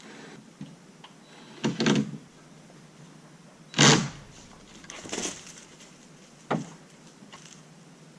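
A handful of separate knocks and scrapes, the loudest about four seconds in and a sharp click a little before the end.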